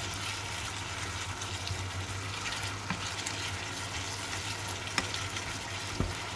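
Ground beef and diced red onion sizzling in a nonstick pot as they are stirred with a wooden spoon, with a few sharp knocks of the spoon against the pot.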